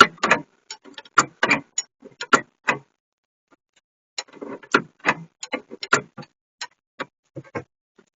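Irregular sharp metallic clicks and taps from hand tools working on a seized brake bolt, a few a second, pausing for about a second midway.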